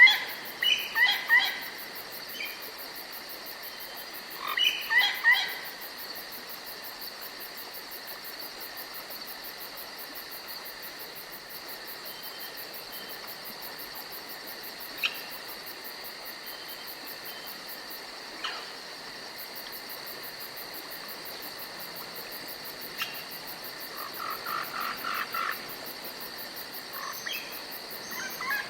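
Forest ambience: a steady high chirring of insects, with short bursts of repeated bird chirps about five seconds in and again near the end, and a few faint clicks.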